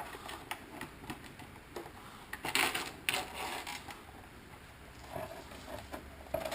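Thin plastic film being peeled off a painted Lexan RC car body. It gives scattered small clicks and crinkles, with a longer, louder rustle about two and a half seconds in.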